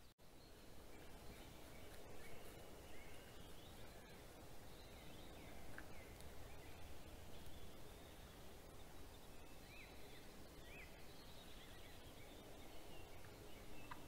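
Faint birdsong: scattered short chirps and quick rising and falling notes from small birds, over a steady outdoor background hiss.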